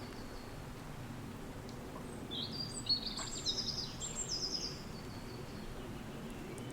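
Steady wind noise, with a songbird singing one short phrase of quick, high trilled notes starting about two seconds in and lasting around two and a half seconds.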